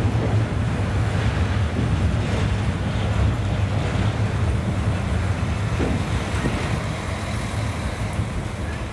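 Pesa Link diesel multiple unit rolling slowly past as it pulls into the station, a steady low rumble from its diesel engines and wheels. The sound eases off a little near the end as the train goes by.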